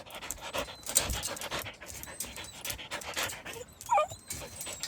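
Caged hunting dog panting quickly, with a brief whine about four seconds in.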